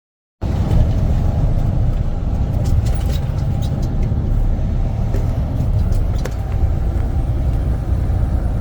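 Steady low engine and road rumble inside a moving semi-truck's cab, starting abruptly after half a second of silence, with a few light clicks and rattles.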